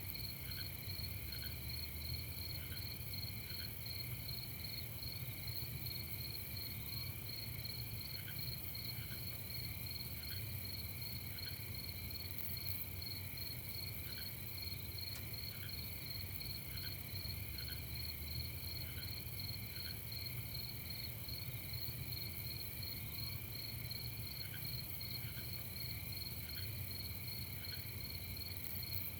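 Night chorus of crickets chirping steadily: several continuous pulsing trills at different pitches, with occasional short, lower chirps over a low rumble.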